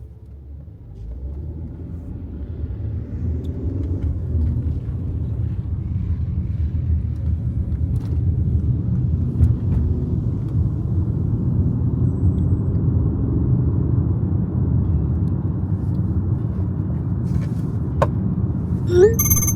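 A car driving, with a steady low rumble of road and engine noise that builds up over the first couple of seconds and then holds even. A brief high, chime-like tone sounds near the end.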